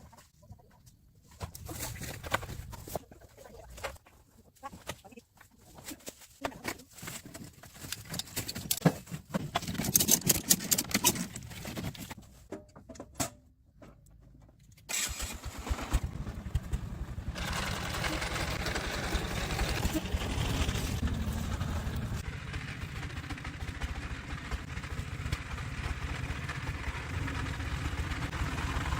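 Irregular knocks and clatter for about the first half. About halfway through, a vehicle engine starts abruptly and keeps running steadily with a deep rumble.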